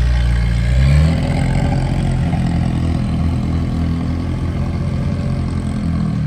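Car engine running, rising briefly in pitch just before a second in, then settling into a rough, steady low rumble.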